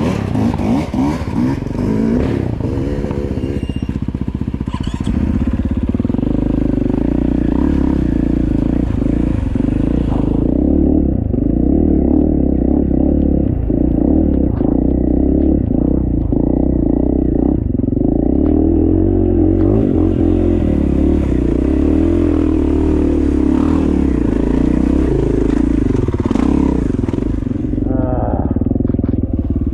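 KTM dirt bike engine running under way, a steady engine note with small rises and falls in pitch as the throttle changes.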